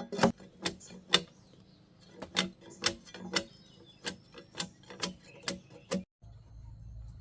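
Repeated sharp blows of a hand tool, chopping or hammering, about two a second. About six seconds in they stop at a cut and a steady low hum takes over.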